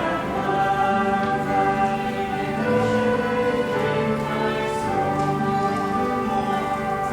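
A group of young children singing a song together, with instrumental accompaniment holding long notes underneath.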